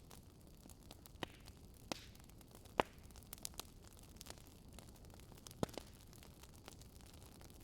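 Wood fire crackling: a few sharp, irregular pops over a low steady hiss, the loudest pop about three seconds in.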